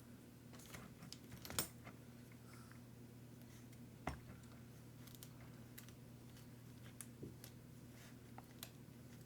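Scattered light clicks and taps of small RC-car parts being handled and fitted, a few seconds apart, over a faint steady low hum.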